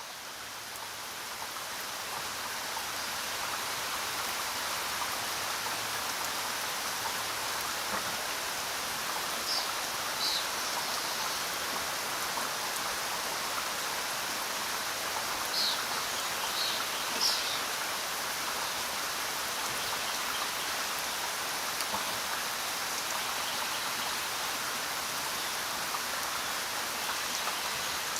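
Steady rainfall, fading in over the first few seconds and then holding even. A few brief high chirps come through near the middle.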